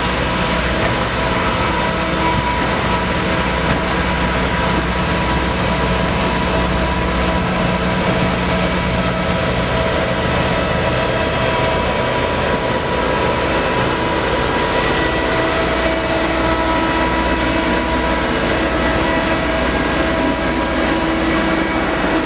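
Train running, a steady loud rumble with several steady humming tones throughout.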